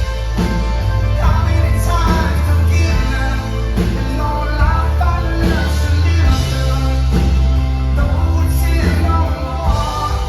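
Live rock band playing at full volume, with heavy bass, regular drum hits and a melodic line over the top.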